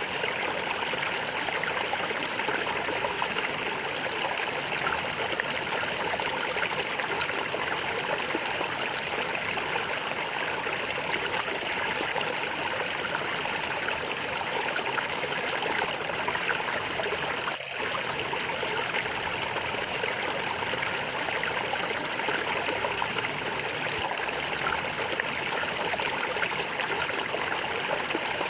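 Flowing water gurgling and trickling steadily, with a brief momentary drop in level about two-thirds of the way through.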